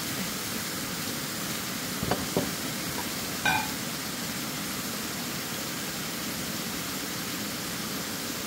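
Steady sizzling hiss of chopped carne asada, onions and tomatoes frying in a Dutch oven over a propane camp stove on a high flame. A couple of light clicks come about two seconds in and a short ringing clink about a second later.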